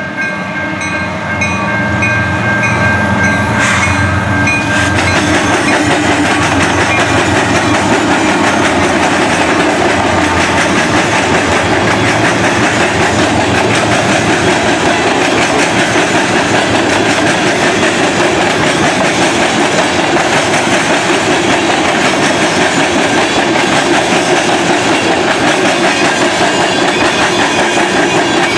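Train passing close by on the rails. A locomotive horn sounds at the start and stops about four and a half seconds in, followed by the steady rumble and clickety-clack of the cars rolling over the track.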